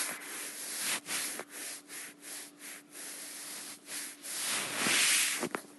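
Rubbing and rustling noises: a run of short scrapes, a few a second, then a longer, louder one about five seconds in, over a faint steady hum.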